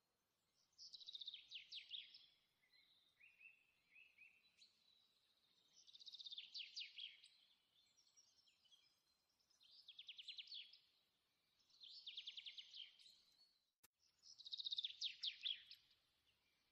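Faint songbird singing: five short, high, rapidly trilled phrases a few seconds apart, with softer chirps between them.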